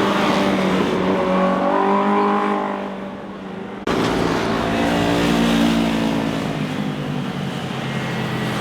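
Motorcycle engines passing by. One engine note rises and fades away. After an abrupt cut about four seconds in, another motorcycle's engine comes through and passes.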